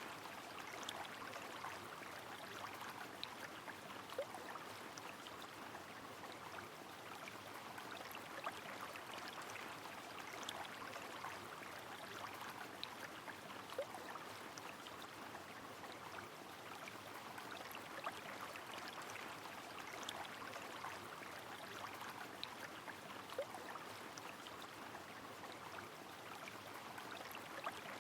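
Steady rush of a flowing river mixed with falling rain, with scattered light ticks of drops.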